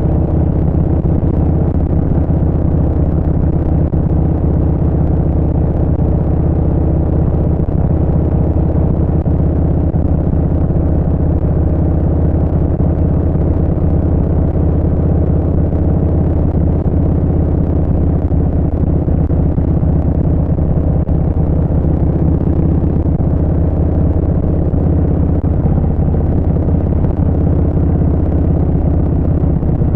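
Harley-Davidson Street Bob 114's Milwaukee-Eight 114 V-twin through a Vance & Hines Short Shots full exhaust, running at a steady cruise under way with little change in pitch.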